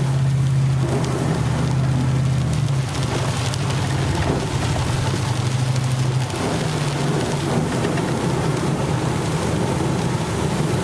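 Steady rain pelting a moving truck, heard from inside the cab, over the low hum of the truck's engine. The engine note changes about a quarter of the way in and again a little past the middle.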